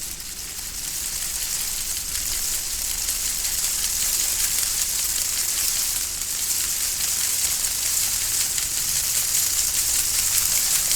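Steady hiss, strongest in the high treble, growing a little louder over the first few seconds and then holding even.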